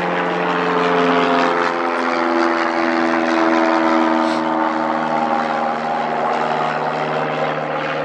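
Propeller airplane engine droning overhead, its pitch slowly sinking over several seconds.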